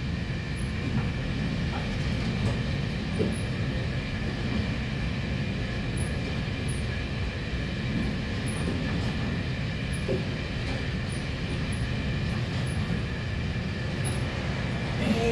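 Steady running rumble heard inside a moving express train, with a faint steady whine above it. Near the end it grows louder and busier as an oncoming train passes close by in a tunnel.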